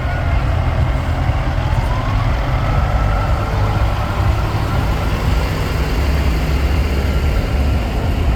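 Heavy trucks of a slow convoy driving past, their diesel engines giving a loud, steady low rumble. A high tone rises in pitch about a second in and holds.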